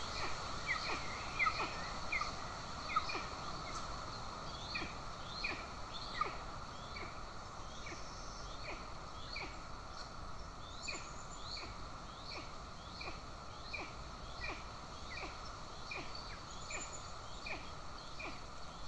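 Golden eagle chick begging: a steady series of short, high, down-slurred peeping calls, about one to two a second, over a steady background hiss.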